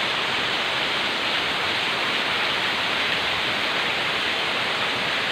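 Heavy downpour of rain: a steady, dense hiss.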